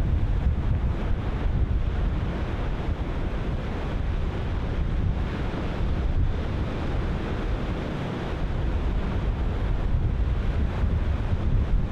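Ocean surf breaking continuously, wave on wave, with strong wind buffeting the microphone and adding a low rumble.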